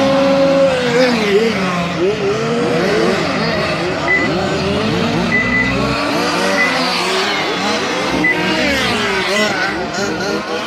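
Several 1/5-scale RC race cars' Zenoah two-stroke petrol engines running together, revving up and falling off in overlapping waves as they race. Short high beeps sound a few times in the middle.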